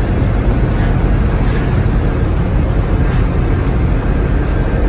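Six-wheel-drive military truck driving at about 45 mph: a steady low engine and road rumble.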